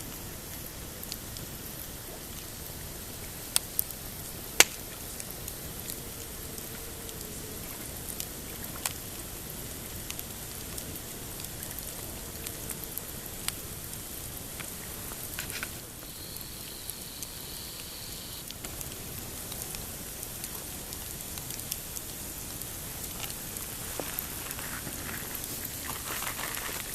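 Pine-wood campfire burning with a steady hiss and scattered sharp pops, the loudest pop about four and a half seconds in.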